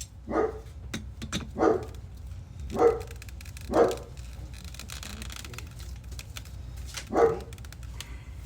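A small dog barking: five short, sharp barks, four in quick succession in the first four seconds and one more about seven seconds in.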